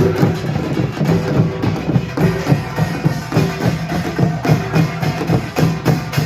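Korean pungmul percussion ensemble playing a fast, steady rhythm: drums struck over and over, with the bright clang of small gongs above them.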